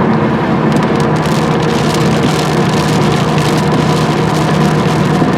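Car driving on a flooded, rain-soaked road, heard from inside the cabin: a steady engine and road hum with tyres hissing through water, and from about a second in a rapid crackle of water striking the car.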